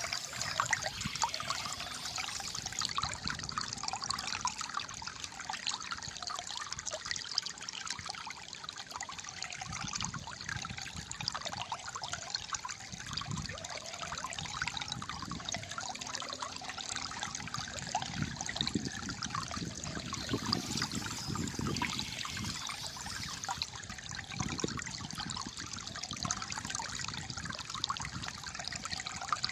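Calm flowing water trickling and gurgling steadily, a dense patter of small splashes with a soft low burble underneath.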